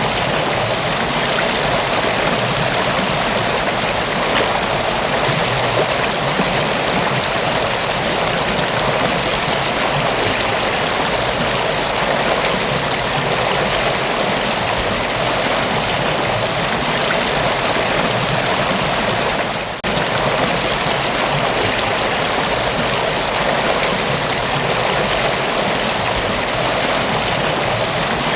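Mountain waterfall, water rushing and splashing in a dense, steady hiss. The sound briefly drops out for a moment about two-thirds of the way through.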